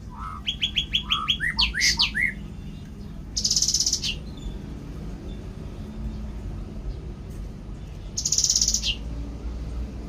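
A songbird singing: a quick run of about eight repeated notes and swooping whistles, then two loud, buzzy trills about five seconds apart, each ending in a falling note.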